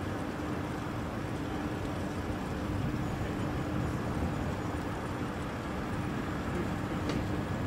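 A DB class 101 electric locomotive hauling Intercity coaches draws toward the platform: a steady rushing noise with a constant low hum, growing slightly louder in the second half.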